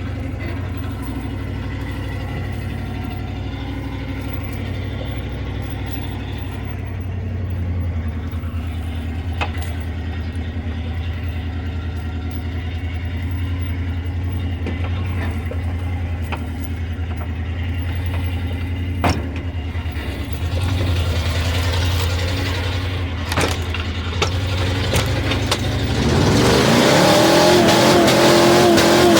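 Truck engine running steadily at low revs, then revving up hard near the end with a rising pitch and a loud rush of noise, with a few sharp knocks along the way.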